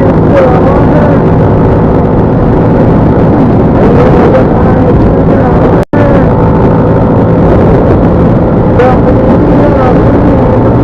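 Loud, steady engine and road noise from a moving vehicle, cut off sharply for a split second about six seconds in.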